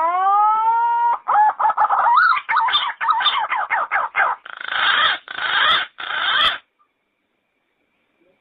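Yellow-footed green pigeon calling. The phrase opens with a long rising whistle, breaks into a run of quick warbled notes, and ends in three harsher, rougher notes. It stops about two seconds before the end.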